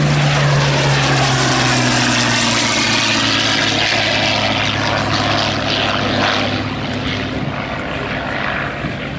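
Rolls-Royce Merlin-engined WWII fighter, a Spitfire Mk.1 or Sea Hurricane, flying past in display. The steady engine drone sweeps down in pitch as it passes and fades toward the end.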